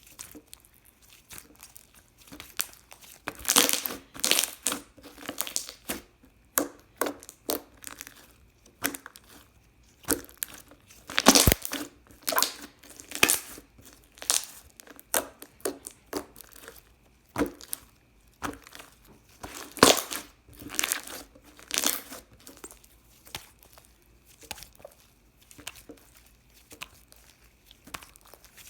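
Green clear slime being squeezed and worked by hand, giving irregular clusters of crackling, popping clicks, a burst every second or so.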